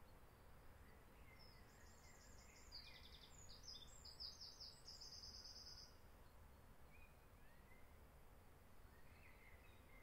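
A songbird singing faintly: one song of several fast, high trills lasting about four and a half seconds, followed by a few faint short calls near the end.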